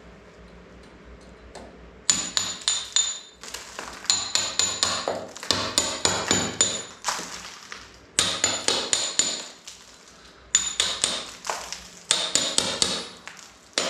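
Hammer striking a small steel point chisel against lime render, in about six quick runs of sharp blows that ring metallically, starting about two seconds in. The render behind sounds solid: still firmly bonded to the wall.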